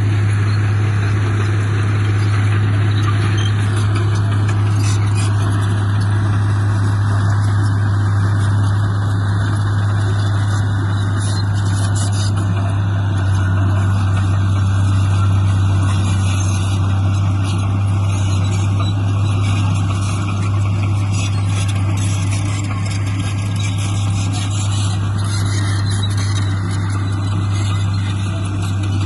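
Diesel engine of heavy earthmoving machinery running steadily under load, a constant low drone with no change in pitch.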